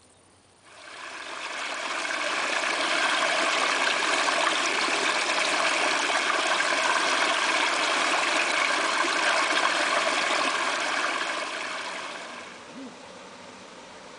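Steady rush of flowing water, fading in about a second in and fading out near the end.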